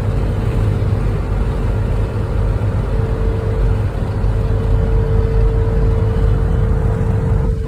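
Sprinter van driving: a steady, loud low engine and road rumble with a thin steady whine.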